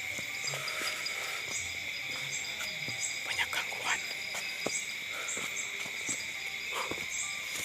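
Steady, high insect chorus of cicadas or crickets droning at two pitches, with short chirps repeating higher up about every second, and scattered clicks and rustles as of movement through undergrowth.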